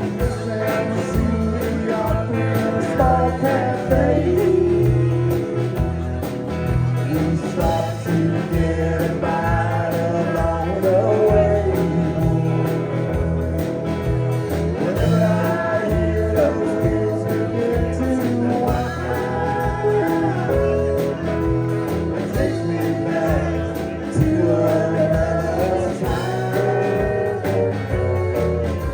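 A country band playing live, with guitar and a singing voice over a steady beat.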